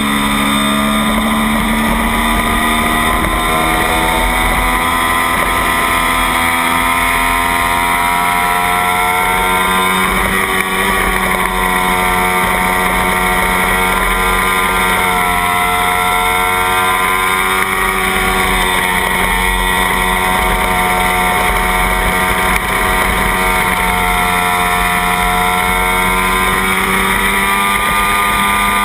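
Kawasaki Ninja parallel-twin racing engine recorded onboard, held at high revs under racing load, its pitch rising and dipping gently several times with the throttle through the corners. Wind rush over the microphone runs underneath.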